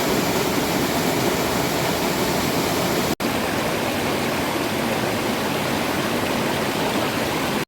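Heavy rain pouring down in a steady, loud hiss. It breaks off for an instant about three seconds in.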